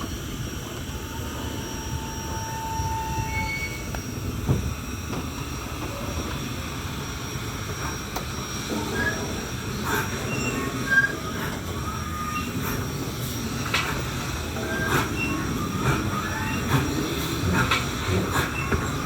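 Narrow-gauge train rolling slowly through the curved track of a wye, with a steady low rumble. Its wheel flanges give short high squeals against the rails, and sharp clicks come from rail joints, both more often in the second half.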